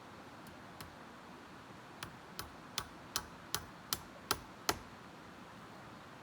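A run of eight evenly spaced sharp knocks, about two and a half a second and growing louder, typical of a tool striking, as in hammering, over a steady hiss.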